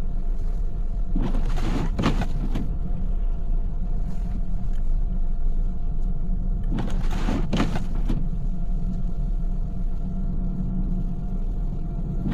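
Car driving, heard from inside: a steady low rumble of road and engine with a faint constant hum. A brief swish comes about a second in and again about seven seconds in.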